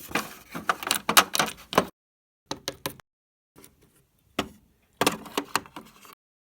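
Clicking and clattering of small hard plastic objects being handled, in several short bursts with silent gaps between: a busy run at the start and another near the end.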